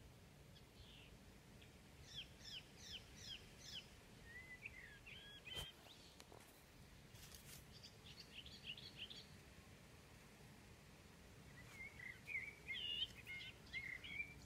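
Birds singing faintly over quiet outdoor background noise: a run of five quick descending notes about two seconds in, then further short twittering phrases around five, eight to nine, and twelve to fourteen seconds. A few soft clicks fall in the middle.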